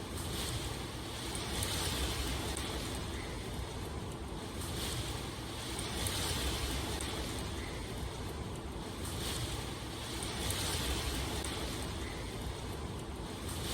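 Steady rain falling, an even hiss that swells and eases about every two seconds.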